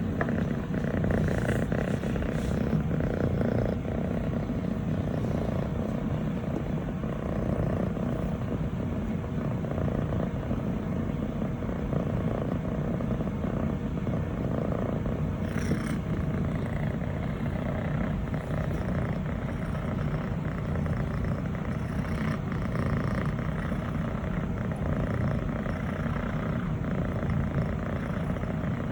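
Scottish Fold kitten purring steadily while being petted, a continuous low rumble, with a few brief rustles near the start and about sixteen seconds in.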